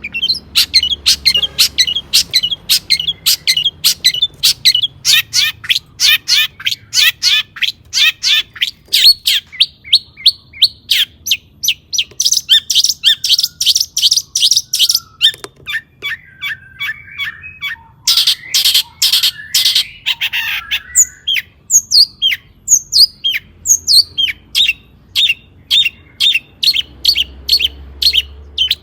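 Long-tailed shrike (cendet) singing: a fast run of short, sharp high chirps, about three to four a second, broken by a harsher, scratchy passage about two-thirds of the way in.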